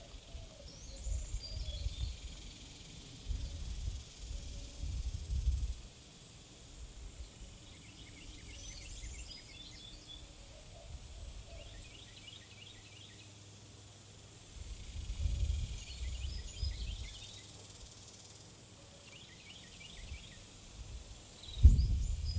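Small songbirds at a feeder chirping in short quick clusters every few seconds, over a steady outdoor background with bouts of low rumble, the strongest right at the end.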